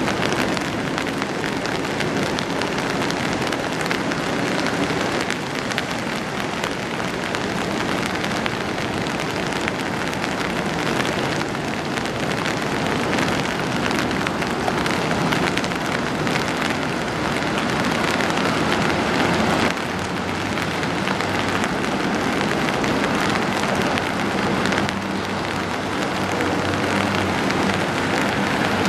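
Steady rain falling on an umbrella overhead, a dense even hiss of drops. A low steady hum joins about two-thirds of the way through.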